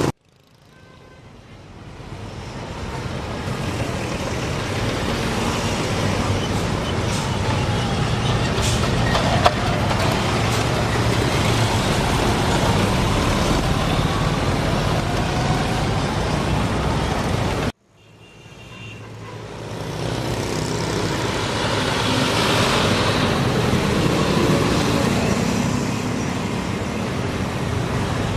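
Road traffic with trucks and buses running, a steady rumble of engines and tyre noise. The sound cuts out abruptly twice and fades back in over a couple of seconds each time, and there is a single sharp click about nine seconds in.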